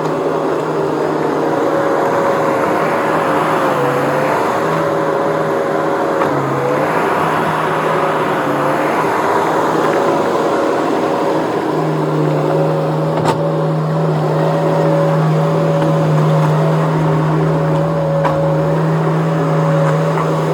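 Skid steer's engine running steadily under work, with its pitch wavering slightly and two swells of rushing noise in the first half. A single click comes about two-thirds through, and the low hum grows stronger in the second half.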